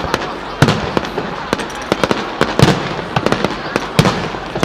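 Fireworks going off in quick, irregular succession: sharp crackling reports mixed with a few deeper, louder booms, each echoing briefly.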